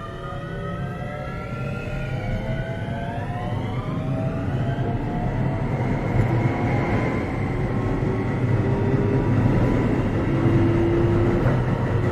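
Keio 7000 series electric train heard from inside the car while accelerating: the traction motors whine, several tones rising in pitch, over a growing rumble of wheels on rail. After about four seconds the whine levels off and the running noise keeps getting louder.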